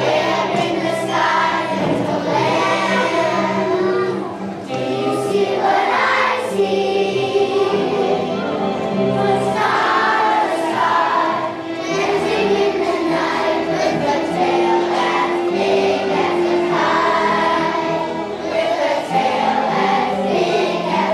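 A choir of young children singing a song together over musical accompaniment.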